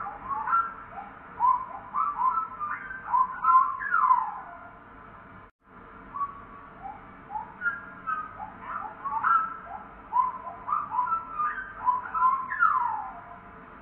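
Slowed-down bird song: a phrase of short rising whistled notes that ends in one long downward sweep, heard twice with a brief break about five and a half seconds in.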